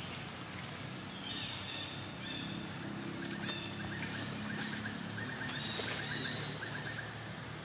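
Outdoor ambience: birds chirping in quick repeated bursts with a few clear higher notes, over a steady low hum.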